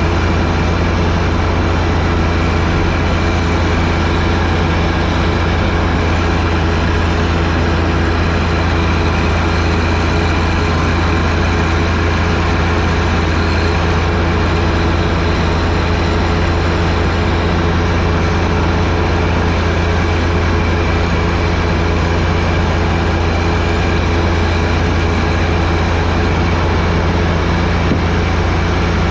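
John Deere 1025R sub-compact tractor's three-cylinder diesel engine running steadily while driving its front-mounted 47-inch snowblower, a constant low drone with a steady hum and hiss over it.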